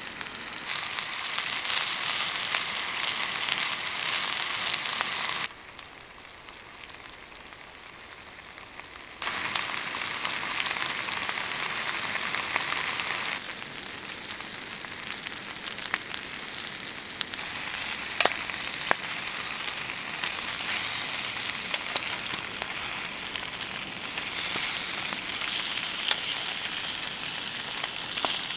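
Bacon and sausages sizzling in a frying pan over a gas canister stove. The sizzle drops and rises in level abruptly several times, and sharp pops and ticks come through in the second half.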